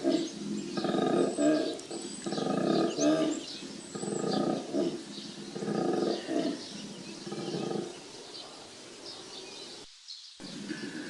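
Male koala bellowing: a series of deep, rasping calls about a second long each, repeating every second or so and weakening near the end. Birds chirp faintly in the background.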